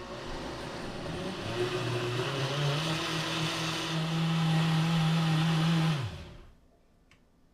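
Vitamix S55 personal blender motor blending a liquid, its pitch rising over the first few seconds as the speed is ramped up. It holds steady, then is switched off about six seconds in and spins down to a stop.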